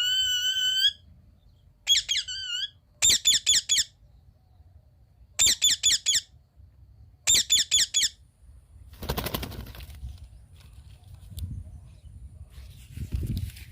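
Indian ringneck parakeet calling: a held whistled note, then a wavering call, then three bursts of about four quick, shrill shrieks each, roughly two seconds apart. After about eight seconds the calls stop and softer rustling follows.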